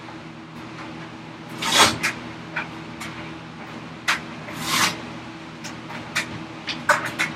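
Handsaw cutting through ash in slow, easy strokes: two drawn-out rasping strokes, with scattered light clicks and knocks of wood and tool between them, over a steady low hum.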